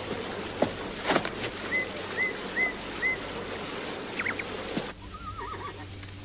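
Open-air country ambience with a bird calling: four short, identical chirps about half a second apart, then a few more, over a steady hiss with a few soft knocks. Near the end it drops to a quieter hush.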